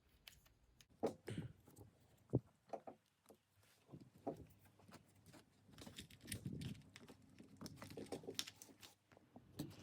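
Faint, scattered clicks and rustling of hands handling small plastic parts and wires, as servo wires are tucked into a small RC truck's plastic chassis.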